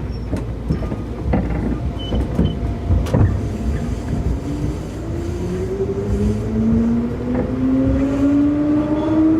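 Keikyu 2000-series car DeHa 2052 pulling away from a standstill: a few clunks in the first three seconds, then the traction motor whine starts at about three and a half seconds and rises steadily in pitch, several tones together, as the train gathers speed. This car's motors, thought to be Mitsubishi-made, have an unusual growl when powering at low speed.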